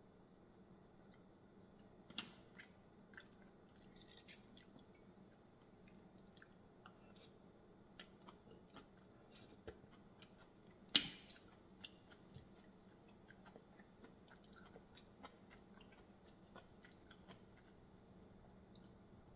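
Quiet chewing of seafood boil (mussels and shrimp) with scattered small clicks and smacks as the food is eaten and handled by hand, the loudest a sharp click about eleven seconds in.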